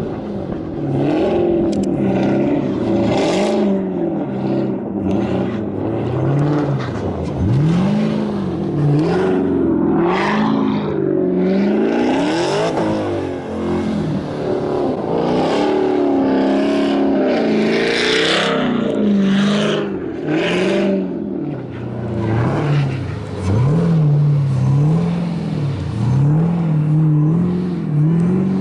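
Camaro ZL1's supercharged V8 revving up and falling back again and again as the car is driven to slide on snow, with short bursts of rushing noise over it.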